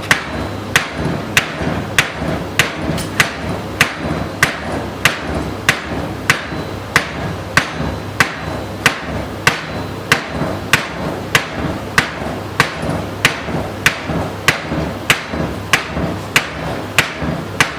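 Hammer striking metal in a steady rhythm, about three sharp ringing blows every two seconds, driving a part out.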